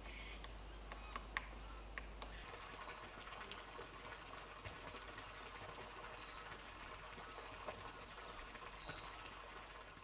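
White-capped redstart giving a short, thin, high call note about once a second, seven times over, against faint forest ambience. A few sharp taps come in the first two seconds.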